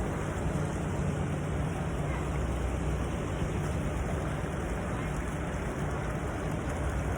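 Steady rushing hiss of falling water from an outdoor water feature, with a low rumble underneath.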